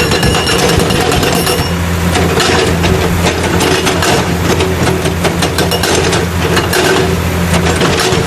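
Loud rock-crusher machine running: a steady low engine drone under rapid, continuous rattling and knocking.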